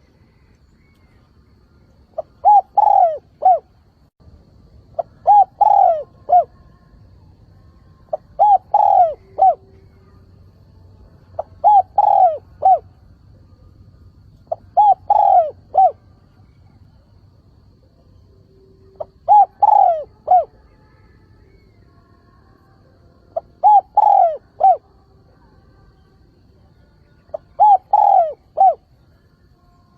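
Spotted dove giving its calling coo, a phrase of three or four low, rounded notes, repeated about every three to four seconds with one longer pause midway. It is a lure bird's call, used to draw wild doves in and rouse them to coo back.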